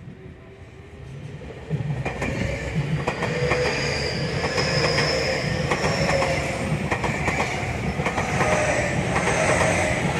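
Electric commuter train passing close by. It grows louder as it arrives, jumping up about two seconds in, then runs steadily past with a low rumble of wheels on rail, repeated clicks over the rail joints and a high whine.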